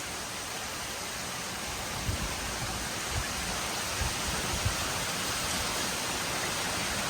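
Very heavy rain pouring down, a steady dense hiss, with a few short low thumps about two to five seconds in.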